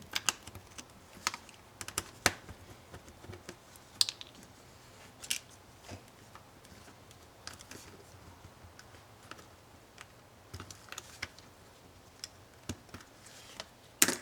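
Irregular sharp clicks and taps of small laptop parts and tools being handled and set down during disassembly. The clicks come a second or so apart, with a louder cluster near the end.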